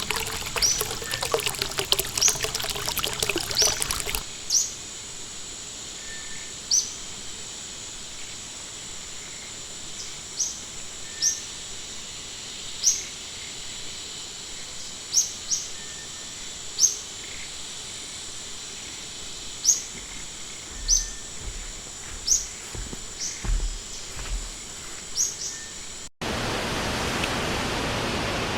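Running water babbling with bird chirps, cutting off about four seconds in to a quieter scene of short, high bird chirps every second or two over a steady high whine. Near the end it switches abruptly to steady rushing water.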